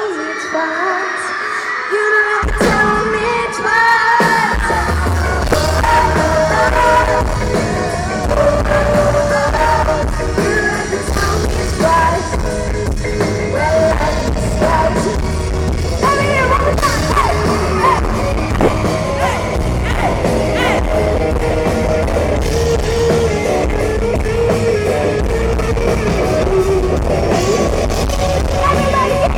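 Pop-rock band playing live with lead singing. The opening has only singing with light backing; the bass and drums come in about two seconds in, and the full band carries on steadily.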